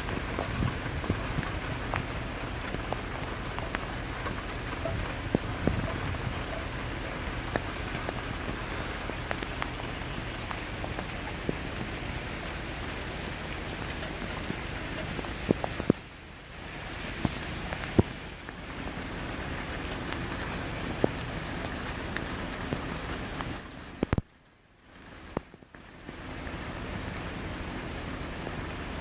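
Torrential rain pouring down, with drops hitting close to the microphone as scattered sharp taps. The sound dips briefly a little past halfway and cuts out almost completely for a couple of seconds near the end.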